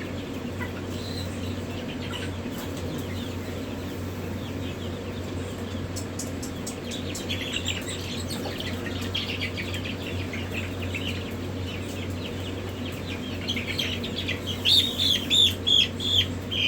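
Chicks peeping, faint at first, then one chick cheeping loudly and repeatedly, several high peeps a second, in the last couple of seconds, over a steady low hum.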